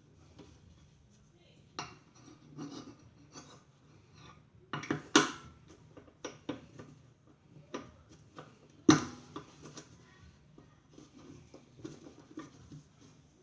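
Irregular metallic clinks and knocks of tools and small parts being handled during a microwave repair, with two louder clatters about five and nine seconds in.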